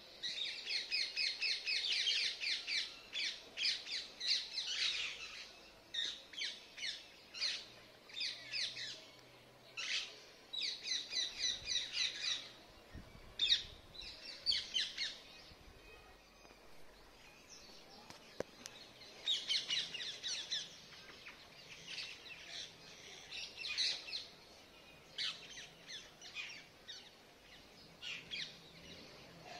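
Birds calling in runs of quick, high chirps that come in bursts, with a quieter spell about halfway through.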